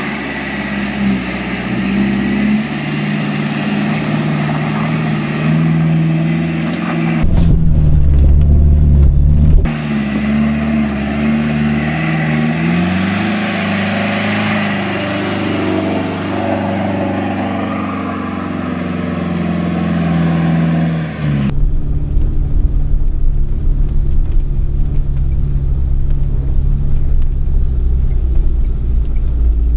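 Four-wheel-drive engine working under load on a slow, slippery off-road climb, revving up and down. Partway through, and again after about 21 seconds, it turns into a deeper, steadier rumble.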